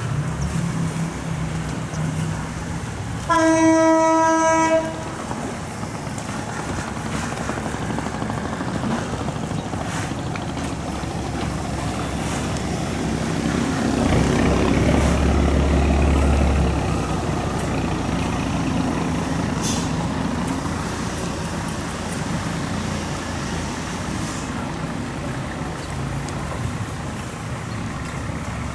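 Long-tail boat engine running steadily under wind and water noise. A single horn blast, held for about a second and a half a few seconds in, is the loudest sound, and a deeper hum swells for a couple of seconds midway.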